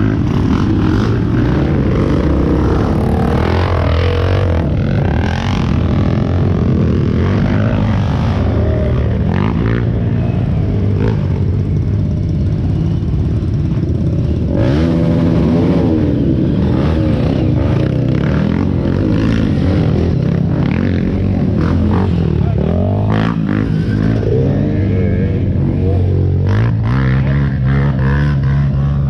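Off-road vehicle engine revving hard in repeated surges, its pitch rising and falling, as a vehicle is driven up a steep trail climb.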